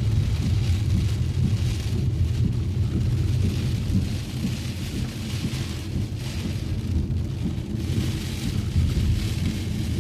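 Heavy rain hissing steadily over a constant low rumble of a car driving on wet roads.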